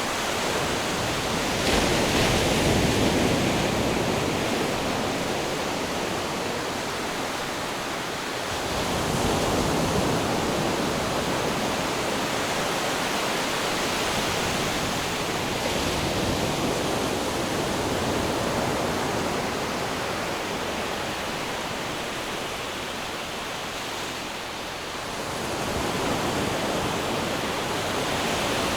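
Ocean surf washing in a continuous hiss, swelling as waves break about two seconds in, again around nine seconds and near the end.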